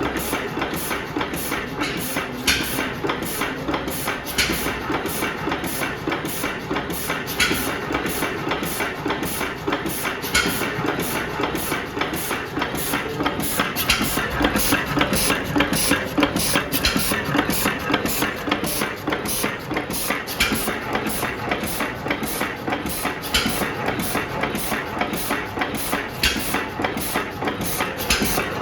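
Dudbridge 3hp stationary gas engine of about 1900 running steadily, its valve gear and moving parts clattering in an even rhythm of several sharp clicks a second.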